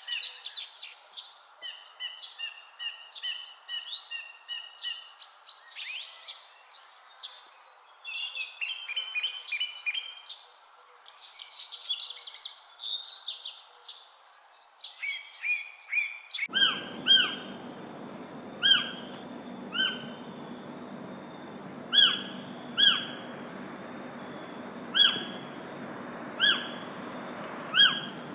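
Several songbirds singing with trills and quick runs of repeated chirps. About two-thirds of the way through, the sound cuts abruptly to a different recording: a steady background hiss with a bird giving a short, sharp, downward-slurred call every one to two seconds.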